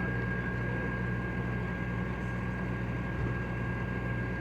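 A vehicle engine idling with a steady low hum and a thin, steady high whine above it.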